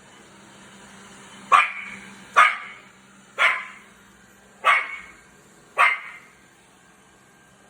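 A dog barking: five sharp barks about a second apart, the last one about six seconds in, over a faint steady low hum.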